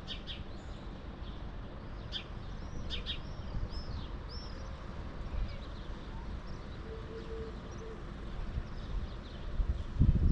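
Small birds chirping in short, scattered calls over a steady low outdoor rumble. Near the end a gust of wind buffets the microphone, the loudest sound here.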